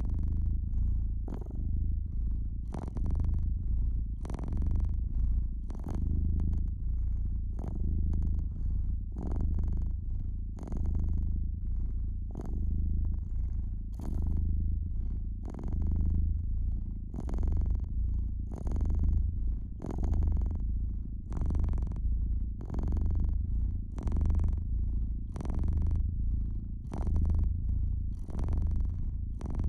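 Domestic cat purring steadily and closely, a deep rumbling purr that swells and fades about every second and a half.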